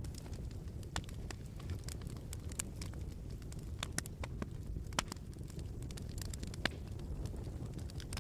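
Wood fire crackling in a fireplace: a steady low rumble of flames with irregular sharp pops and snaps, the loudest about a second in, at five seconds and near seven seconds.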